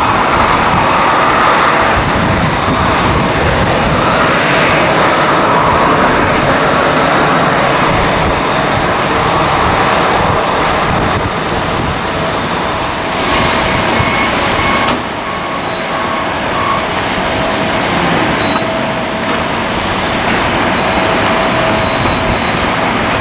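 Jet airliner engines running, a loud steady rushing noise with a faint steady whine; the high end drops away about fifteen seconds in.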